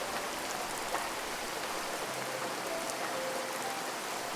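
Steady rain falling, an even hiss with scattered drop sounds.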